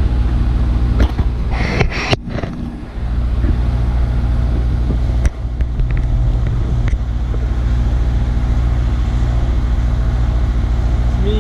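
A boat's engine running steadily with a low drone, with a short rush of noise about two seconds in.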